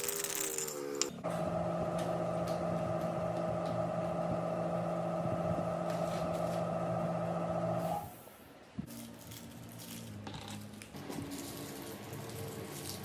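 A small motor running with a steady hum from about a second in, cutting off about eight seconds in, followed by quieter handling sounds.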